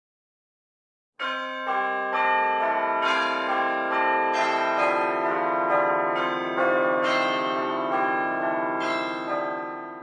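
Bell Tower sound effect: church bells pealing in a tumbling sequence, about two strikes a second, each strike ringing on under the next. It starts about a second in and fades away at the end.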